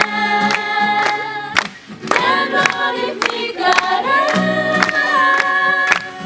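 A group of voices singing a song together, with a sharp, regular beat running under the singing.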